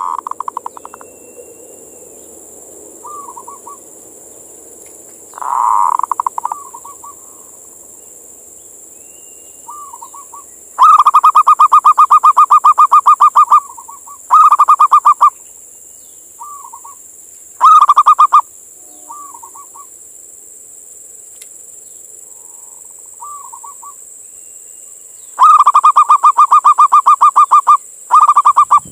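Male zebra dove (perkutut) calling: bouts of fast, rattling coos, the longest lasting about three seconds, with softer short coos in between. This is the male's call to a female.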